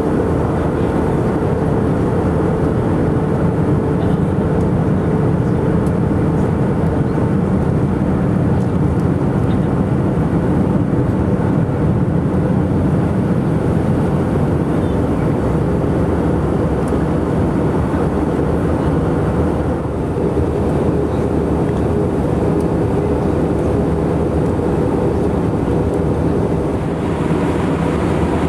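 Airbus A319 cabin noise in flight during descent: a steady drone of engines and airflow, strongest in the low range, with a faint hum that fades out several seconds in.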